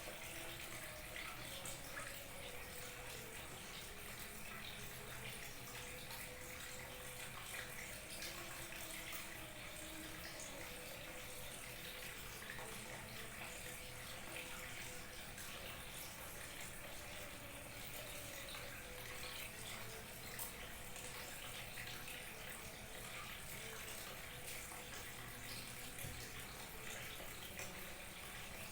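Small waterfall trickling and splashing steadily.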